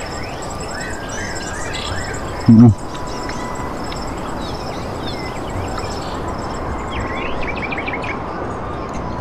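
Birds chirping and calling repeatedly over a steady outdoor background hiss. About two and a half seconds in there is one brief, loud, low sound.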